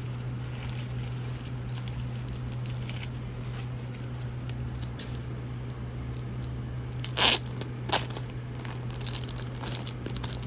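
Packaging being torn open and crinkled as a mailed package of trading cards is unwrapped, with two short, loud rips about seven and eight seconds in. A steady low hum runs underneath.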